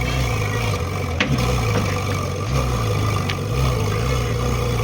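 Ferrari 458 Speciale Aperta's 4.5-litre naturally aspirated V8 idling, a steady low rumble that wavers slightly, with a sharp click about a second in.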